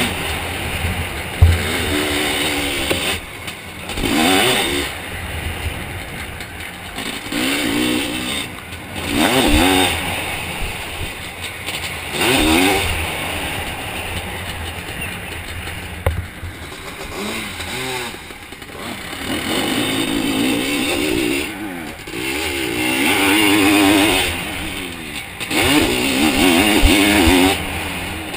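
Zabel 700 two-stroke sidecar-cross engine heard onboard, revving hard and backing off again and again every few seconds as the outfit is ridden around the motocross track, with a few sharp knocks.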